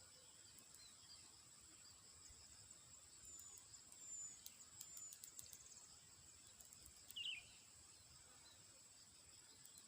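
Faint field ambience: a steady high insect drone with scattered ticks, a few short high chirps in the middle and one slightly louder chirp about seven seconds in.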